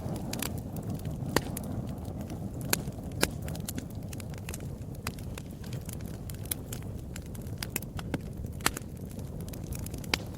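Wood fire crackling: a steady low rumble of burning with frequent sharp pops and snaps, a few of them louder than the rest.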